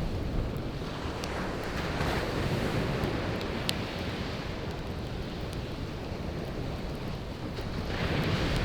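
Sea waves washing onto the shore, swelling about two seconds in and again near the end, with a wood campfire crackling: a few sharp pops from the burning logs.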